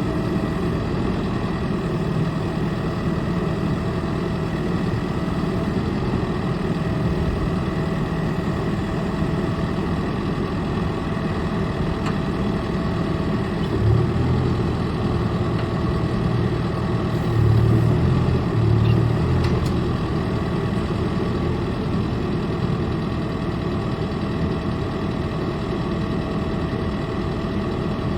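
John Deere 4.5-litre diesel engine of a 2013 John Deere 410K backhoe loader idling steadily, with two brief louder low surges about halfway through.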